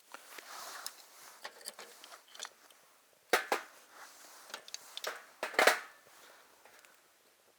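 Rustling and handling noises with scattered clicks, broken by a pair of sharp clacks about a third of the way in and another loud pair a little past two-thirds.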